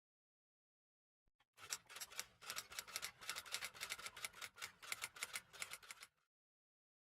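Rapid, irregular clicking of typing keys, starting about a second and a half in and stopping abruptly about six seconds in, with dead silence before and after.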